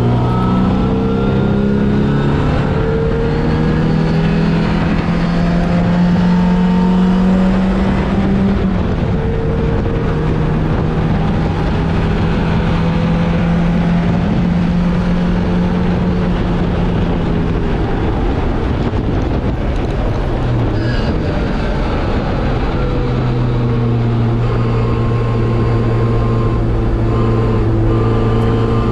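MGB racing car's 1.8-litre B-series four-cylinder engine, heard from inside the car, running hard at racing speed. Its pitch climbs early on, drops sharply about eight seconds in and briefly again around twenty-one seconds, then pulls strongly again.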